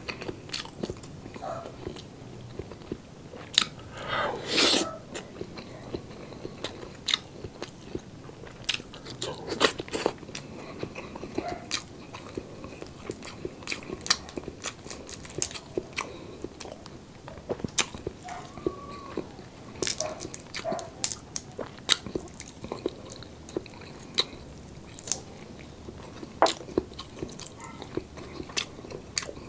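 Close-miked chewing of roast lechon chicken and boiled shrimp: a stream of short wet mouth clicks and smacks, with the crackle of shrimp shells peeled by hand. One longer, louder burst comes about four seconds in.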